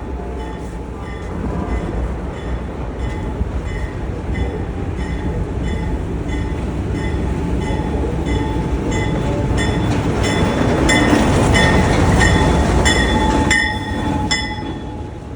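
Buffalo Southern Railroad locomotive 5010 and its train rumbling past, growing louder to a peak about two-thirds of the way through, then falling away. A regular high-pitched tick repeats about twice a second throughout.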